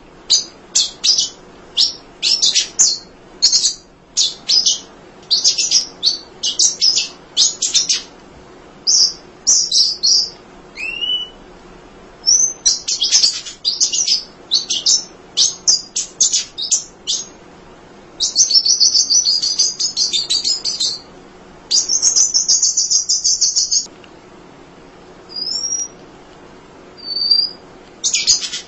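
An emprit (munia) singing tirelessly: fast runs of high, thin chirps in quick clusters, two longer buzzy trills lasting a couple of seconds each a little past the middle, then a few single short whistles before the rapid chirping resumes near the end.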